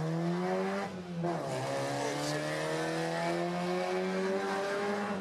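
Mazda MX-5 engine accelerating with its exhaust open at the midpipe, unbolted from the rear silencer. The revs climb, drop at a gearshift about a second in, then rise steadily through the next gear. Heard from inside the car.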